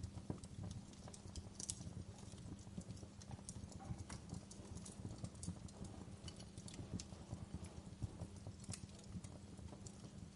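Wood fire burning in a fireplace, crackling with many irregular sharp snaps and pops over a steady low rumble.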